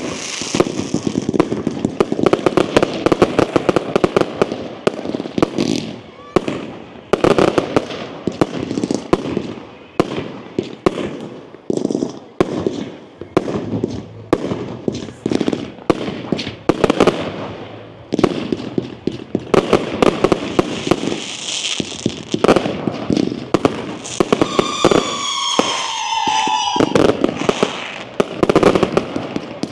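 Firework display: sharp bangs and crackling bursts going off in quick succession without a break.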